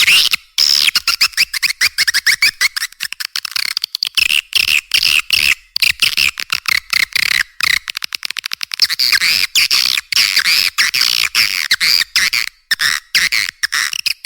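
Swiftlet lure call track ('suara panggil'): dense, rapid twittering and chirping of edible-nest swiftlets. It is played through speakers to draw swiftlets into a nesting house. The calls come in quick pulses with brief gaps and run on without a break.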